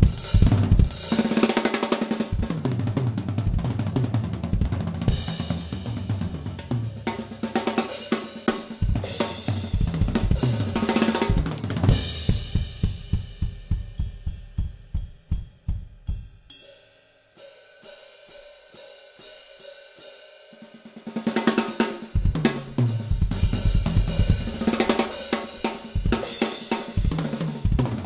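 Gretsch Renown Purewood hickory drum kit played: snare, bass drum, hi-hat and cymbals in busy patterns. Past the midpoint the playing dies down to a soft, sparse passage, then the full kit comes back in loudly about three-quarters of the way through.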